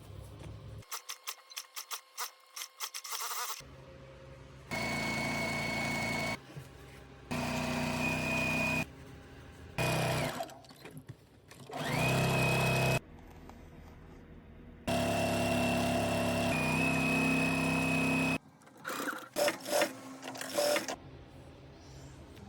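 Sewing machine running in five separate bursts of about one to three seconds each, stopping and starting again, each with a steady high whine, as it stitches the denim repair. Rapid clicking and rattling comes before the first burst and again after the last.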